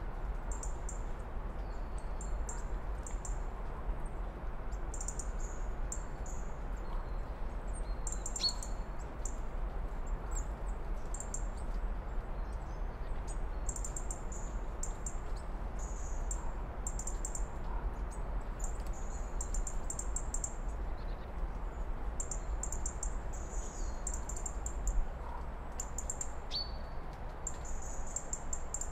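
Small birds chirping in quick, high-pitched bursts throughout, with two sharp falling whistles, over a steady low rumble.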